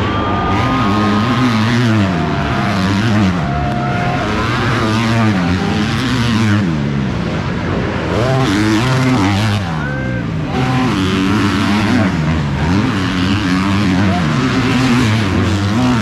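Several 250cc four-stroke motocross bikes racing, their engines revving up and falling back again and again as they accelerate, shift and back off around the track, with one bike's note overlapping the next.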